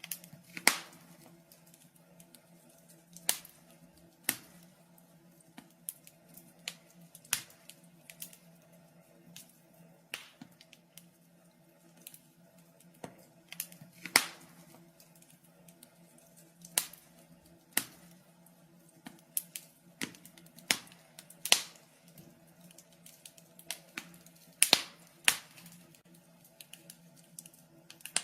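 Wood fire in a fireplace crackling: irregular sharp pops and snaps of uneven loudness, a few of them much louder, over a faint steady low hum.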